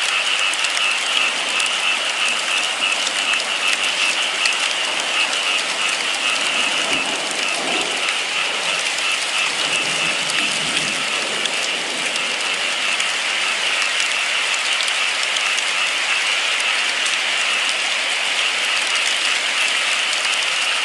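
Steady rain falling, a dense, even patter of many drops hitting a surface.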